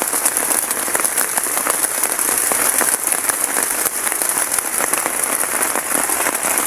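Heavy rainstorm: dense, steady rain with countless individual drops hitting.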